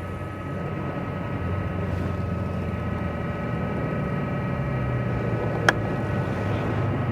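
A motor engine droning steadily at a held pitch, slowly growing louder, with one sharp click about two-thirds of the way through.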